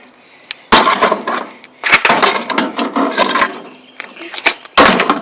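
A microwave oven being smashed: three heavy blows, about a second in, about two seconds in and near the end, each followed by a clatter and rattle of its metal casing and loose parts.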